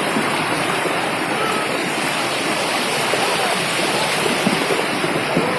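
Loud, steady rush of water, like a swollen stream or heavy rain, with no breaks or distinct events.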